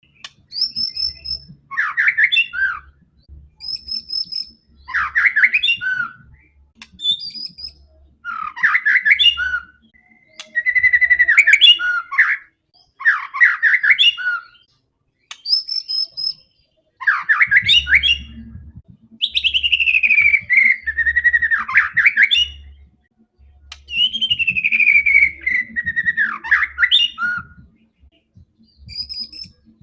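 White-rumped shama (murai batu) singing in separate phrases about every three seconds, each a high thin note followed by a loud, varied warble. In the second half the phrases open with long, falling whistles.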